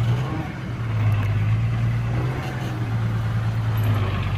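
Heavy diesel engine of earthmoving equipment running at a steady speed, with a strong low hum.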